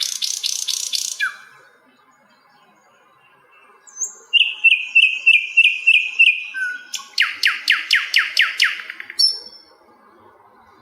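Sikatan londo, a small flycatcher, singing. A fast trill of quick descending notes ends about a second and a half in. After a pause comes a run of about eight short repeated whistles, then another rapid descending trill that stops near the end.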